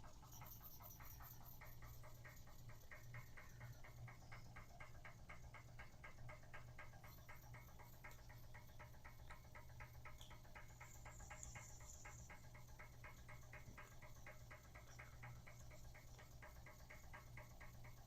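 Weeden No. 10 toy steam engine running under steam, a faint, rapid, even ticking of its exhaust beats and moving parts, over a steady low hum.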